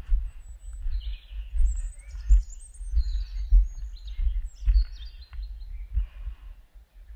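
Small songbirds chirping and singing in high, quick notes, over a loud low rumble with regular low thuds about every half second or so.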